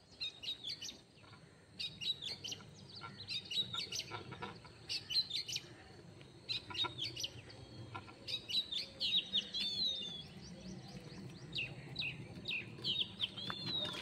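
Small birds chirping in quick, repeated bursts of high notes, over a low rumble.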